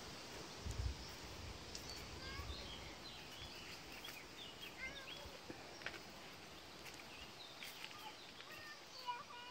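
Faint outdoor ambience with small birds chirping: many short, quick chirps and calls scattered throughout. A couple of low thumps about a second in and again a little later.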